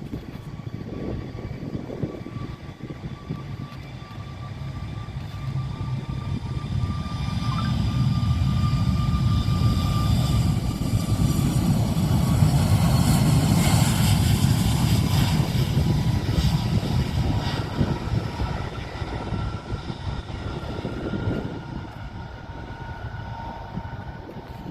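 Jet airliner engines passing: a low rumble swells to its loudest about halfway through and then fades, with a steady high engine whine over it that sags slightly in pitch.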